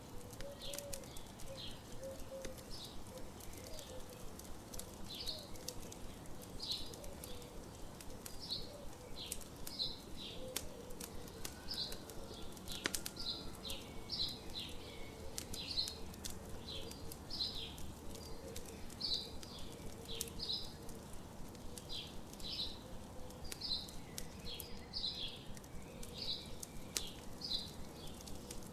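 Campfire crackling with sharp pops, while a songbird chirps over and over, about one or two short notes a second.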